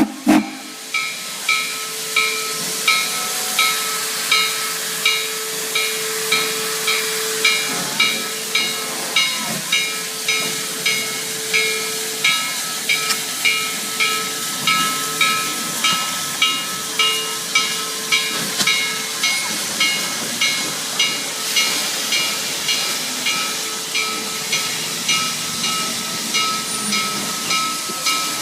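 Steam locomotive hissing steadily, with a regular puff about one and a half times a second. A faint steady tone runs through the first two-thirds.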